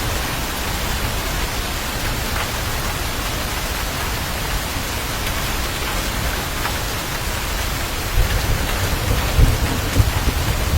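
Steady heavy rainfall, with a low rumble of thunder coming in about eight seconds in and building toward the end.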